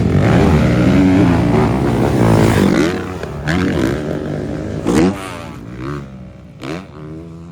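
Several motocross dirt bike engines revving up and down over one another. They are loudest for the first three seconds, then fade, with a sharp blip about five seconds in and a smaller one near the end.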